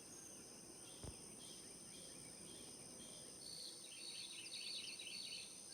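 Faint outdoor ambience: small birds chirping in short runs of high notes, busier in the second half, over a steady high drone. There is a soft low thump about a second in.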